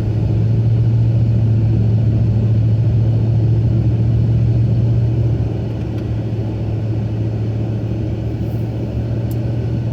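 Steady low rumble of a car driving, heard from inside the cabin, easing slightly about five and a half seconds in.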